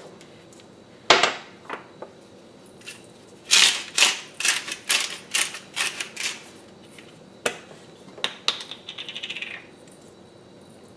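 Pepper being dispensed over a sandwich: a sharp click, then a run of about nine short gritty bursts, then a quick run of small clicks near the end.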